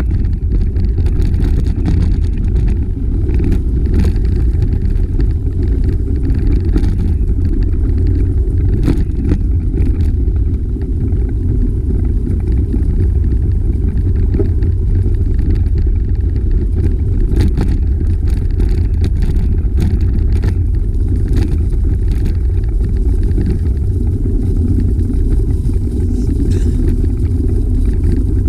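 Wind buffeting the microphone of a camera carried on a moving bicycle: a steady, loud low rumble with no pitch to it.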